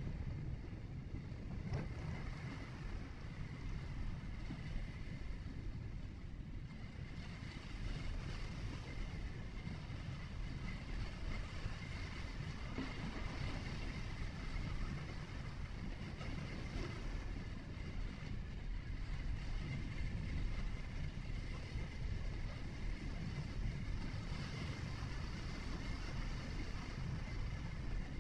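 A vehicle driving: steady low road and engine rumble with an even hiss of tyre and wind noise.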